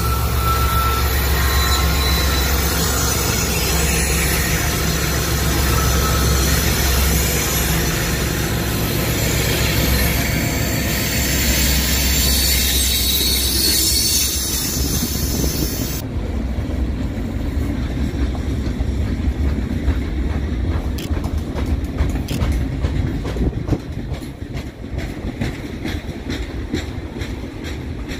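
Diesel freight locomotives, GE ES44s and an EMD SD60E, passing close with a loud, steady low engine rumble. After about sixteen seconds the engines have gone by and the freight cars roll past with a rapid clatter of wheels over the rail joints.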